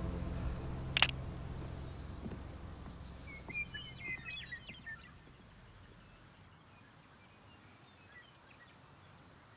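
Ambient background music fading out, with a single sharp click about a second in. Then a small bird gives a quick run of high chirps for a couple of seconds, leaving faint natural ambience.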